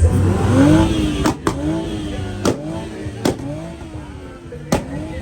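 A V8 truck engine being revved in repeated throttle blips, its pitch rising and falling, with several sharp exhaust pops or cracks between the revs.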